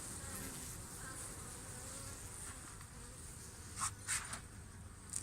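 Honeybees buzzing around an open hive colony, a steady hum. Three or four sharp clicks come near the end.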